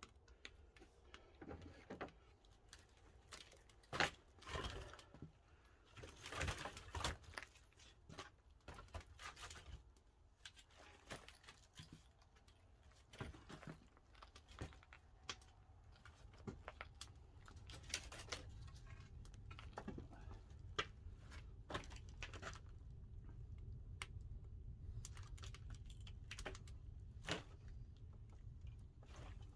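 Pine firewood burning in a traditional wood-fired kiln, crackling with irregular sharp pops. A low rumble builds from about halfway through.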